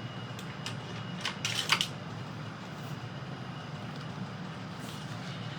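A few light clicks and rustles from a ruler and cardstock being picked up and handled, the loudest about a second and a half in, over a steady low hum.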